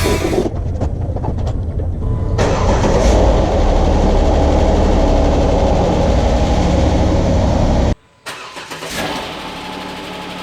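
Jeep Wrangler JK's replacement 3.8-litre V6 starting and running steadily, the new engine's first run after the swap. After a sudden cut near the end it is heard again, quieter, idling.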